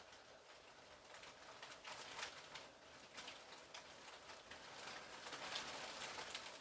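Hail and rain falling, a dense patter of many small ticks that grows louder in the second half.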